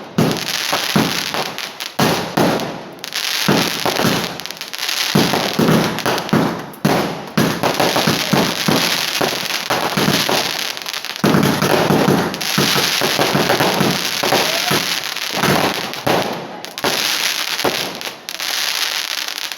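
A 120-shot multi-colour fireworks cake firing: rapid launches and bursts one after another with crackle, broken by a few brief pauses.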